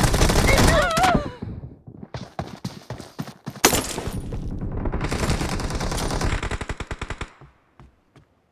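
Video-game automatic gunfire: a loud burst at the start with a wavering tone over it, then long strings of rapid shots, one especially loud about four seconds in, that thin out and stop near the end.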